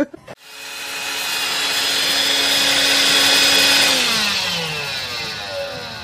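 An electric motor appliance starts up and runs at a steady pitch with a rushing noise. About four seconds in it is switched off, and it winds down with a falling pitch as it fades.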